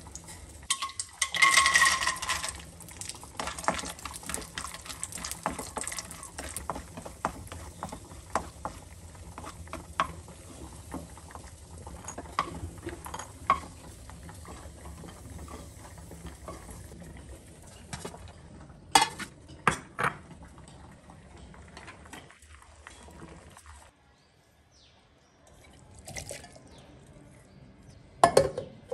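Cashews frying in hot oil in a nonstick kadai: a loud sizzle as they go into the oil about a second in, then a softer, steady sizzle while a wooden spatula stirs and scrapes them in the pan. A few sharp clatters of steel dishes come twice in quick succession past the middle and again near the end.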